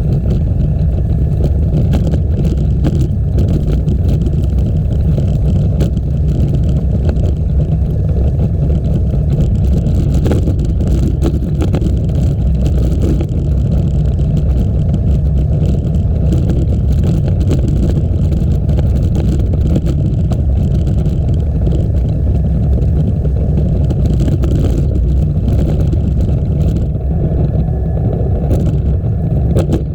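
Steady low rumble of wind buffeting the microphone during a bike ride, with road and trail noise from the moving bike mixed in.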